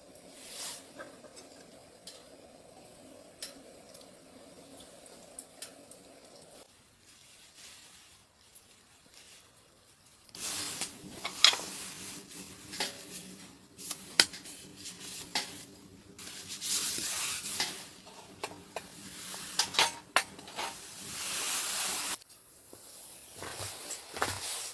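Sizzling, with a utensil clinking and scraping against a pan, which starts loud about ten seconds in. Before that there is only a faint low hum with a few light clicks.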